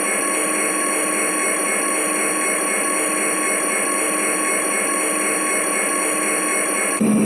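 Model train running on the layout: a steady, whining small electric motor with the hum of wheels on track. Near the end it switches abruptly to a lower, steadier hum.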